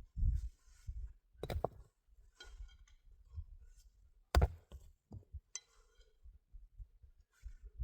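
A few sharp knocks and clicks, the loudest about four and a half seconds in, among quieter handling noises and low rumbles.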